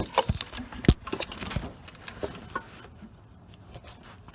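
Hand tools clinking: irregular metallic clicks and knocks as a socket is fitted and worked onto a bolt, fainter near the end.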